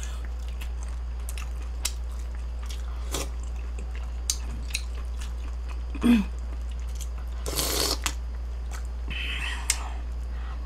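Close-miked eating: chewing, with scattered light clicks of a spoon and chopsticks against dishes and a short noisy burst about seven and a half seconds in, over a steady low electrical hum.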